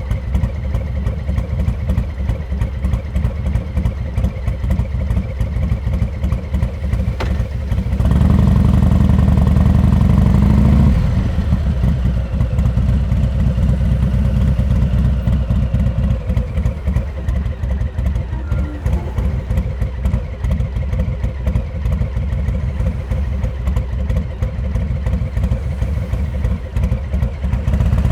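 Harley-Davidson Heritage Classic 114's Milwaukee-Eight V-twin running through a Rinehart exhaust, a fast low pulsing beat. It swells louder for about three seconds partway through, then drops back.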